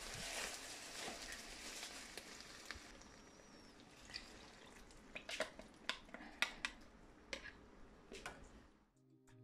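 Diced peppers and onion frying in oil in a nonstick pan, a light sizzle that fades after about three seconds as the sweet and sour sauce is poured in. From about five seconds on, scattered sharp taps and clicks of the spoon against the bowl and pan, and the sound cuts out near the end.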